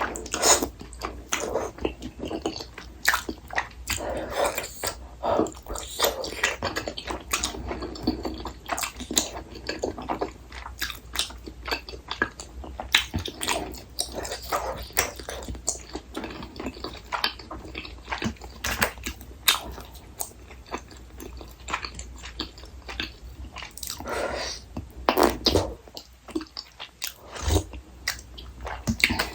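Close-miked chewing and biting of tteokbokki rice cakes, with wet mouth clicks and smacks coming irregularly and continuously.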